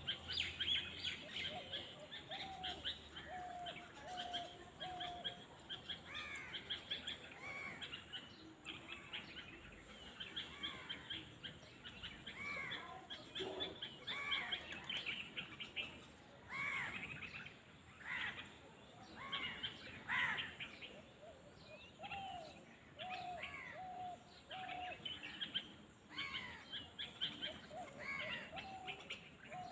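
Several wild birds singing at once: a continuous chorus of high chirps and whistled phrases, with a lower run of four or five evenly spaced notes heard twice.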